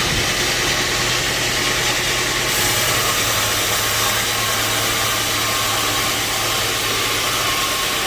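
Sawmill machinery running steadily: a constant motor hum under an even hiss, shifting slightly about two and a half seconds in.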